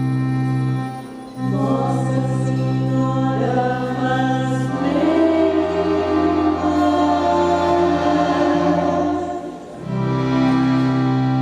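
Devotional song: a choir of voices singing held notes over sustained accompanying chords, briefly dropping away about a second in and again near the end.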